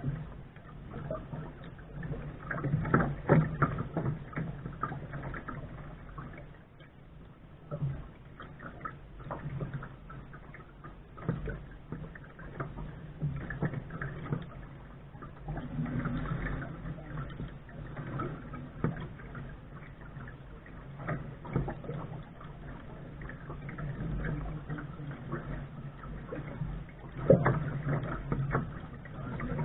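Water slapping and splashing against the bow of a Lark sailing dinghy under way, in irregular bursts, with the loudest slaps about three seconds in and near the end.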